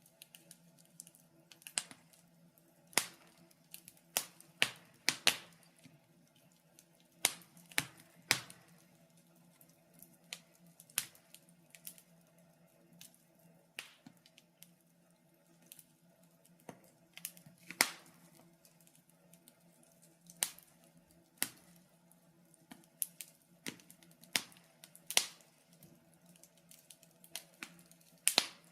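Wood fire in a fireplace crackling: sharp, irregular pops and snaps, one or two a second, over a faint steady low hum.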